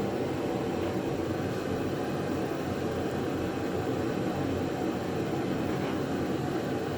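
Steady low-pitched background rumble of a running machine, even throughout with no separate knocks or clicks.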